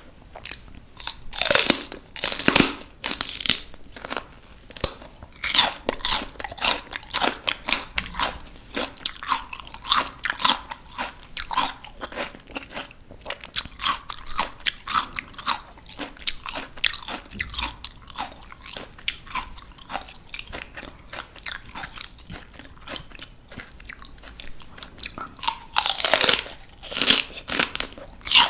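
Close-miked biting and chewing of crisp raw vegetables: loud snapping bites near the start, around six seconds in and near the end, with a steady run of quicker, softer crunching chews between them.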